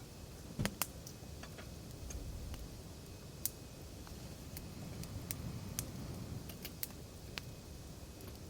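Wood fire crackling: irregular sharp pops and snaps from burning firewood over the low steady rush of the flames, with the loudest pair of pops a little under a second in.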